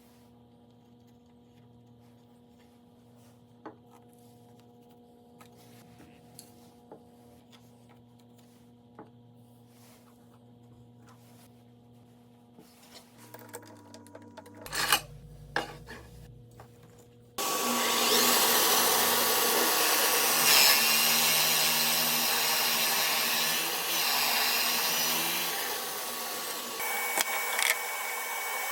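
Faint hum with a few light knocks and clicks, then an electric power tool starts abruptly about two-thirds in and runs loud and steady on wood, easing down a little near the end.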